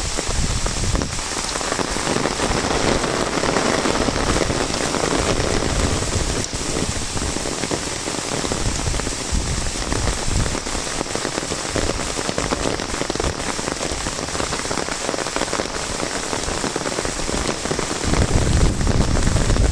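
Heavy monsoon rain falling steadily and drumming on an umbrella overhead, a dense even hiss. A low rumble grows louder near the end.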